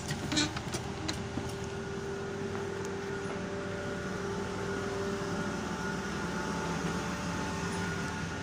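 A train standing at the platform with its machinery running: a steady hum with several held tones. A few sharp clicks come in the first second.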